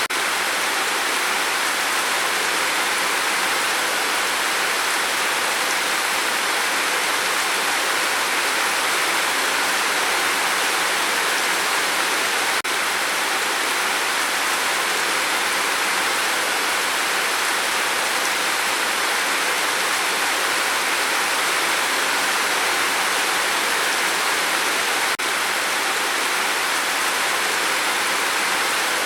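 Rain falling steadily, a dense even hiss with no pauses. There is a faint click twice, about twelve seconds apart.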